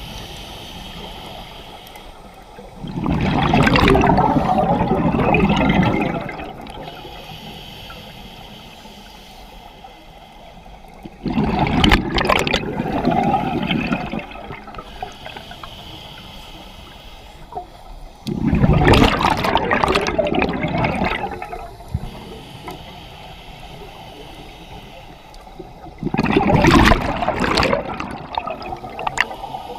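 Scuba diver breathing through a regulator underwater: four loud gurgling rushes of exhaled bubbles, each two to three seconds long and coming about every seven to eight seconds, with a quieter hiss of inhalation between them.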